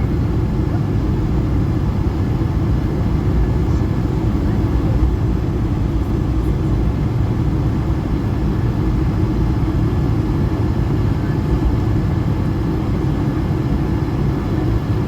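Steady engine and air noise inside the cabin of an Airbus A220-300, whose Pratt & Whitney PW1500G geared turbofans are running, a deep even rumble with faint steady tones above it.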